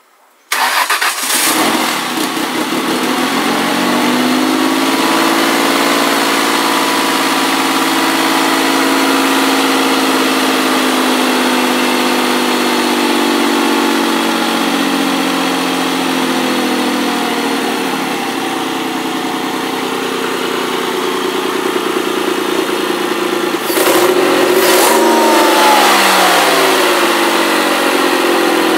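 ST200's engine starting for the first time after a head gasket and timing chain repair. It catches about half a second in, settles to a steady idle within a few seconds, and near the end is briefly revved before the pitch falls back.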